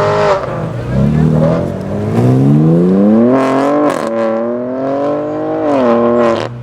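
A modified BMW M car's engine accelerating hard, its revs climbing steadily through a gear. It shifts up about four seconds in, climbs again, then drops off sharply near the end.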